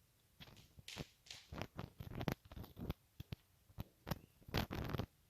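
A string of irregular sharp clicks and taps, several a second, some with a short ring after them.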